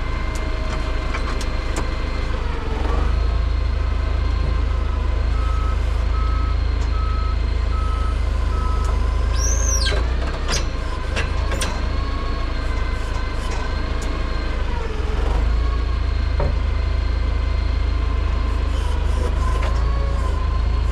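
Heavy-equipment diesel engine running steadily with a low rumble, with a reversing alarm beeping about four times, once a second, around a third of the way in. A brief high-pitched squeal is heard near the middle.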